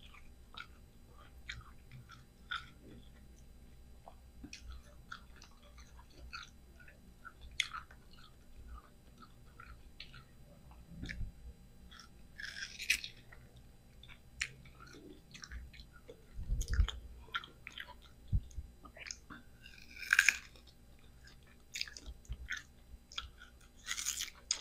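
A person biting into and chewing slices of green mango: a run of small wet mouth clicks and smacks, with a few louder crunchy bites about twelve seconds in, about twenty seconds in and near the end.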